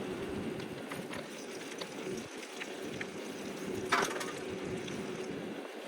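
Electric bike being ridden: a steady rolling noise with small rattling clicks, and one sharp knock about four seconds in.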